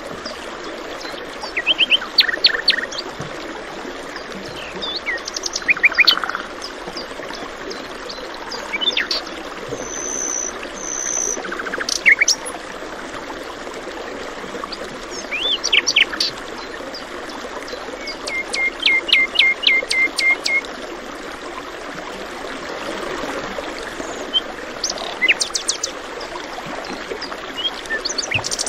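Several songbirds chirping and calling in short phrases, one of them giving a quick run of about eight repeated notes about two-thirds of the way through, over a steady rush of flowing water.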